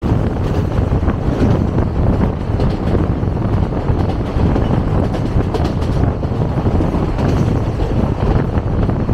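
Indian Railways passenger coach running at speed: a steady, loud rumble of wheels on the track, heard from the coach's window.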